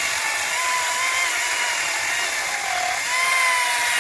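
Echo DCS-2500T 56 V battery chainsaw cutting through a small tree, its electric motor and chain making a steady high whine. The pitch sags a little past the middle as the chain loads up in the wood, then climbs back.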